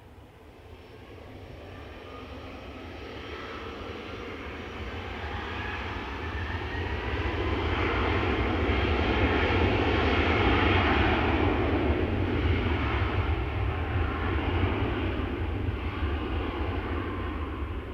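Airplane engines passing: the sound swells steadily to its loudest about ten seconds in, then slowly fades, a low rumble under a wide roar with a faint whine.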